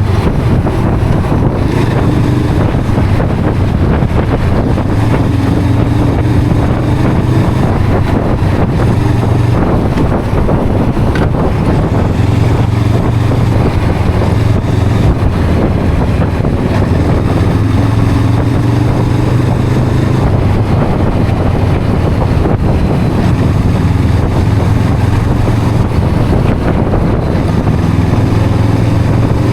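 Honda CL500's parallel-twin engine and exhaust running under way at a steady cruise, its note drifting slightly up and down with the throttle. Heavy wind rushes over the microphone throughout.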